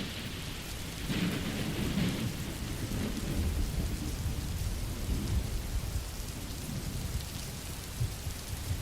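Steady rain, with a low rolling rumble of thunder underneath that swells from about a second in and eases toward the end.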